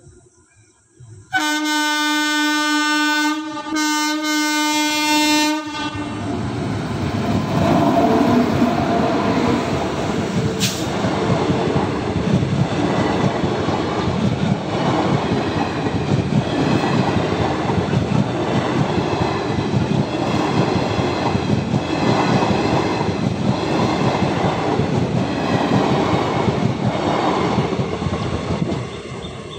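Approaching express locomotive sounding two long horn blasts. Then the passenger train runs past at speed: a steady rumble of wheels on rail with a rhythmic clickety-clack, fading away near the end.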